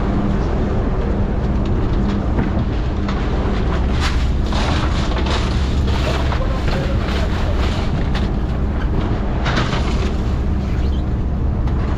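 Fishing boat's engine running steadily with a low hum, with two short rushes of water or wind noise over it, a few seconds in and again near the end.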